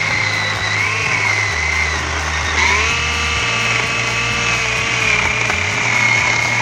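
Einhell battery chainsaw's electric motor whining at speed, its pitch dipping and rising as the chain works through wood, under background music with a steady bass line.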